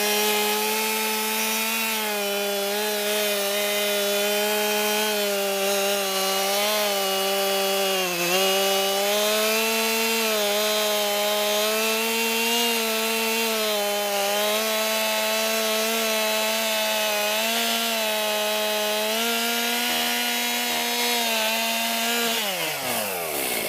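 Chainsaw running at full throttle, cutting through a downed tree trunk, its pitch dipping slightly now and then as the chain bites. Near the end the throttle is released and the engine note falls away.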